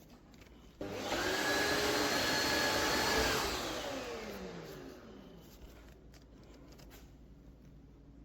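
Tineco iFloor 5 Steam wet-dry floor cleaner's suction motor starting suddenly about a second in, running steadily with a whine for about two seconds, then winding down with a falling pitch as it is switched off.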